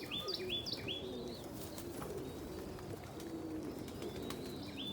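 Pigeons cooing steadily in a loft, with a small songbird singing a quick run of repeated chirps at the start and again near the end.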